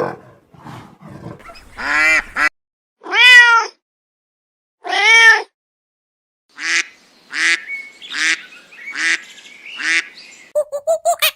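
A cat meowing: three long meows that rise and fall in pitch, then a run of five shorter calls in quick succession.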